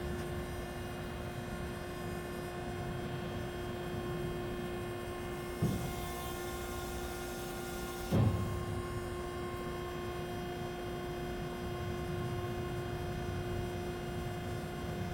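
Hyd-Mech V-20 vertical band saw running with a steady hum. A knock about five and a half seconds in is followed by a high hiss for about two seconds, cut off by a louder knock.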